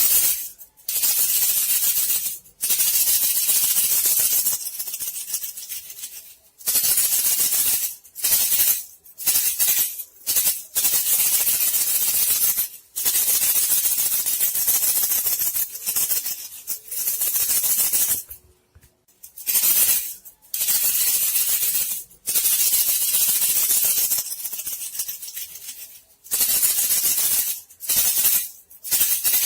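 Shaken rattling lure call for bandicoot rats: hissy rattling in irregular bursts of one to several seconds, broken by short gaps, with a longer pause a little past the middle.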